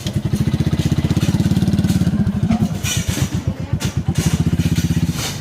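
Motorbike engine running close by, a fast pulsing beat, easing off about three seconds in and picking up again.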